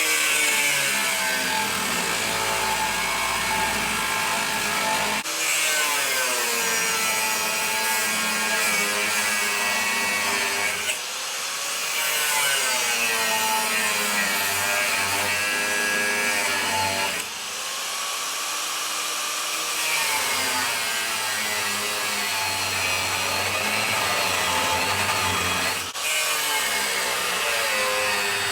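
Angle grinder working on steel to take the heads off the frame's original rivets. Its whine sags and recovers as it is pressed into the work, in several separate stretches.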